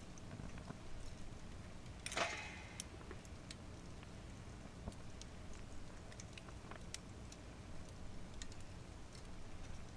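Firewood crackling in a fire stand: scattered sharp snaps and pops, with one louder pop and a brief hiss about two seconds in.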